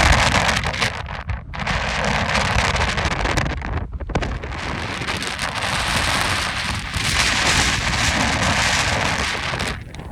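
Strong, gusty Santa Ana wind rushing and buffeting the microphone: a heavy low rumble under a broad hiss that swells and eases from gust to gust.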